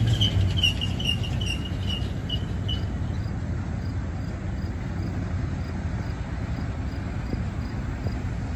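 Diesel locomotive running steadily in the distance as it hauls a passenger train toward the listener, with insects chirping: a rapid chirping trill that fades out about three seconds in, then faint ticks about two a second.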